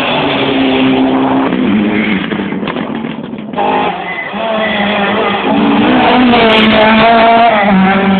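Rally car engine running hard at high revs, its note stepping in pitch, with a brief lift about three and a half seconds in before it pulls strongly again.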